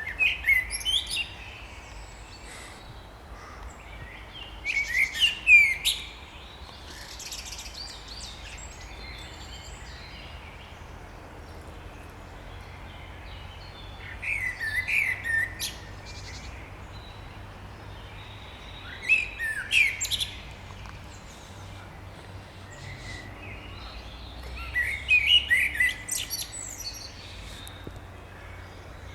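A songbird singing its spring song in short phrases of one to two seconds, five times several seconds apart, each a quick run of falling, whistled notes.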